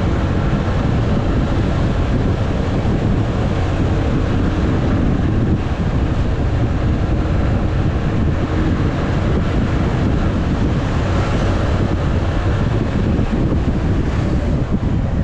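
Motorcycle engine running at a steady pace under a loud, constant rush of wind buffeting the action camera's microphone while riding.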